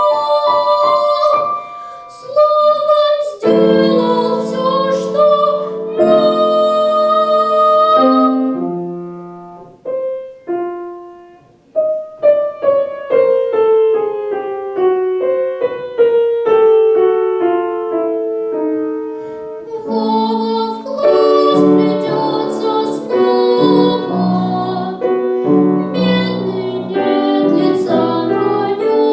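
Solo piano being played: loud chords, then a quiet stretch and a run of single notes in the middle, then chords again from about two-thirds of the way in.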